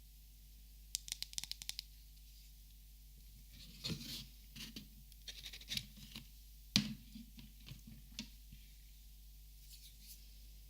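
Copic markers handled close up: a quick run of light taps about a second in, then scratching and scraping, with one sharp click about seven seconds in and a few softer ticks after.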